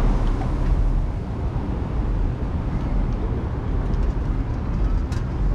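Wind buffeting the microphone in a steady low rumble, with a few faint clicks near the end.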